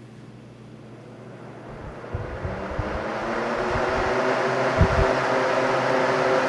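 1971 Wizard 12-inch box fan with a plastic blade set spinning up on high speed: its hum and rush of air rise in pitch and loudness over the first few seconds, then run steady at about 1500–1600 RPM. A few low thumps of air buffeting come in as it gathers speed.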